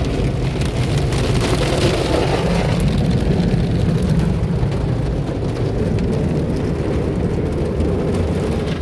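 Sonny's car wash tunnel equipment running: water spraying and pattering on a car's body over a steady low rumble, with a brief surge of hiss about one to three seconds in.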